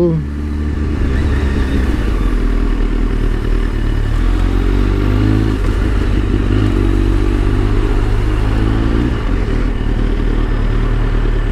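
Onboard sound of a 2004 Kawasaki ZX-10R's inline-four engine running at low revs while filtering through slow city traffic, its pitch rising gently twice.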